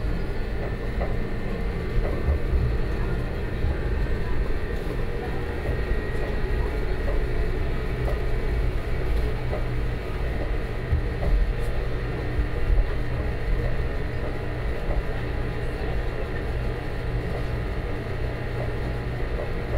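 Gornergrat Bahn electric cog-railway train climbing steadily: a continuous low rumble with a faint steady hum and scattered small clicks.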